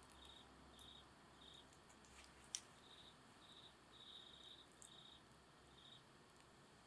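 Faint insect chirping: short high chirps repeating about every half second, some breaking into rapid trills. Over it a few faint crackles from the burning campfire wood, with one sharp pop about two and a half seconds in.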